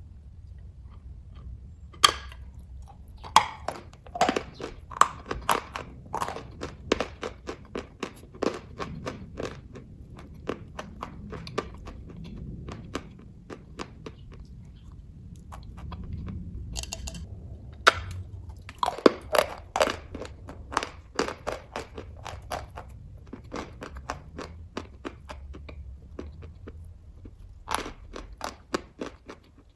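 Close-up chewing and biting of kaju katli (cashew fudge), with wet mouth clicks and smacks in irregular runs and a few sharper bite sounds.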